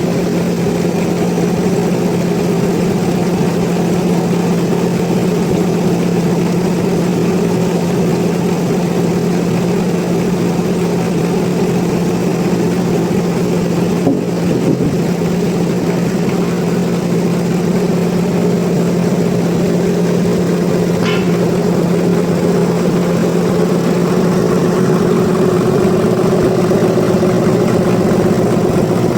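Sawmill machinery running steadily, a constant engine or motor hum at an even pitch.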